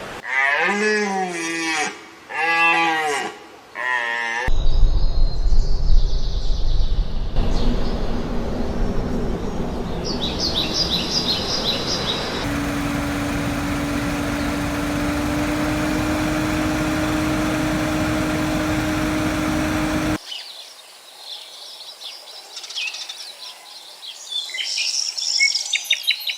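A run of different outdoor animal sounds: two pitched calls that rise and fall, each about a second and a half long, then open-air noise with a short burst of bird chirps, a long steady hum lasting several seconds, and bird twittering near the end.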